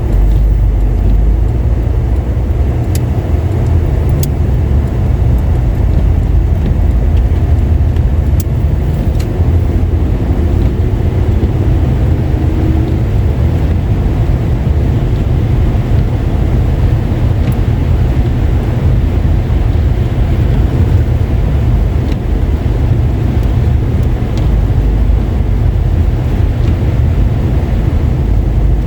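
A car driving on a wet, slushy road: a steady low rumble of engine and tyres with tyre hiss, and a few faint ticks.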